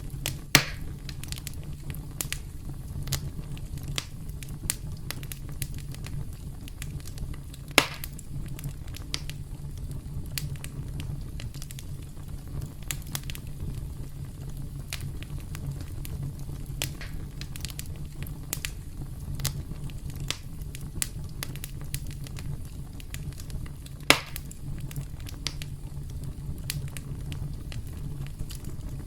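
Campfire burning with a steady low rumble and frequent irregular crackles, with three louder pops near the start, about a quarter of the way through and late on.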